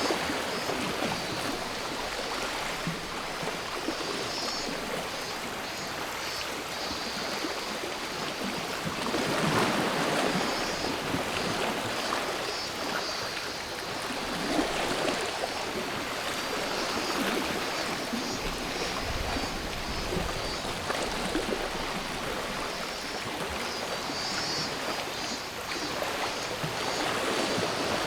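Sea waves washing on the shore in slow swells, with cicadas buzzing in a pulsing high drone over them.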